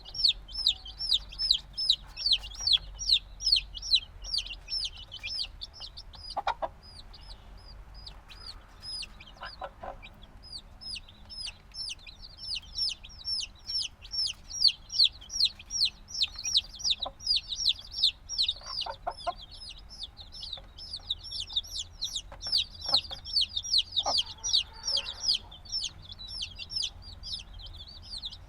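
A group of chicks a few days old peeping continuously, many shrill falling chirps overlapping several a second, thinning briefly midway; the constant loud peeping of chicks that still want the warmth of a mother hen.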